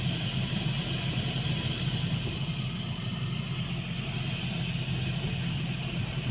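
Renault Kangoo heater blower fan running steadily with a low hum and a rush of air, after dirt was cleared from its fan wheel; it runs smoothly, without the earlier noise.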